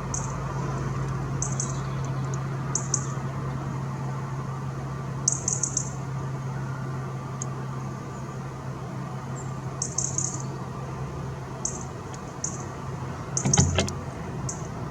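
A small garden bird giving short, high chirps in little clusters every second or two, over a steady low hum. A brief knock sounds near the end.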